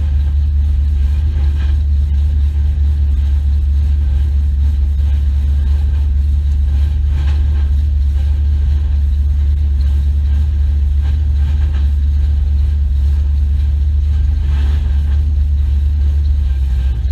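Car engine idling with a steady low exhaust rumble, heard through the hood it sits under.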